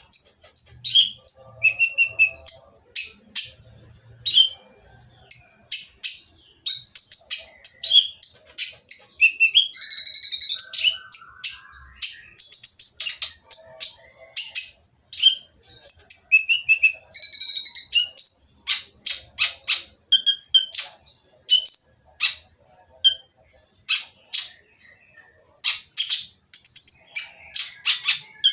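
Kolibri ninja (a sunbird) singing non-stop: a fast, harsh stream of high-pitched chirps, broken by buzzy rattling phrases about a third and two thirds of the way through.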